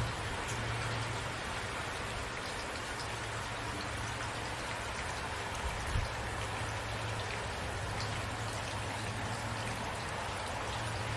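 Steady rain falling, a dense hiss with individual drops ticking on a surface, over a steady low hum. There is one soft thump about six seconds in.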